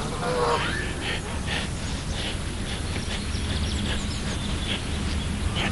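Birds calling outdoors: one louder call just after the start, then faint scattered chirps over a steady low hum.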